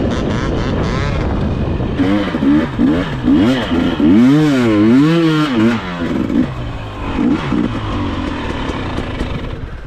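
KTM 300 XC-W TPI two-stroke dirt bike engine under way, its pitch swinging up and down several times as the throttle is worked over rough ground.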